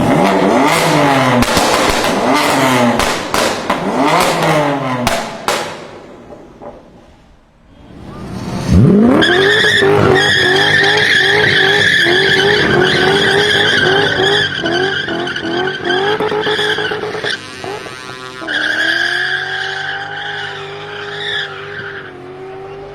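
BMW performance car engine revved hard in quick rising and falling sweeps with crackles, fading about seven seconds in. Near nine seconds it surges back to high, wavering revs, with tyres squealing as in a drift or burnout and a rapid rattle of exhaust pops near the end.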